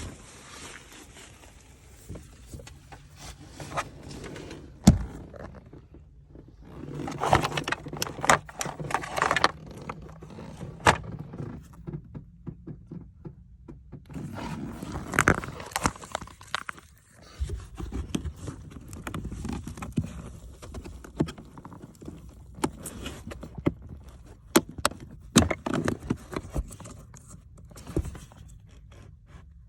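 Hand work with tools and parts in a car's center console and dash: irregular knocks, clicks and scrapes of plastic and metal, with one sharp knock about five seconds in.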